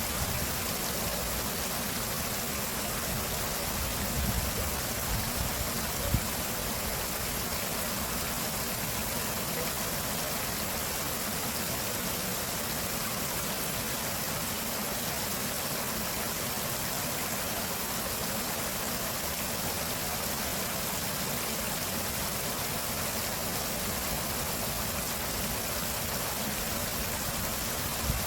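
Flowing water rushing steadily, with a few brief low bumps about four to six seconds in.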